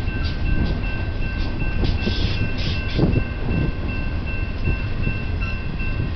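Slow-moving Union Pacific double-stack intermodal train rolling past: a low rumble of wheels on rail, with a few clanks and knocks about two to three seconds in. A railroad crossing's electronic bell rings steadily in repeated pulses over it.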